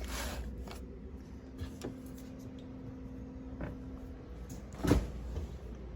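Handling noises from food packages being moved in a pantry: a few light knocks, then a sharp knock about five seconds in, over a steady low hum that stops about four seconds in.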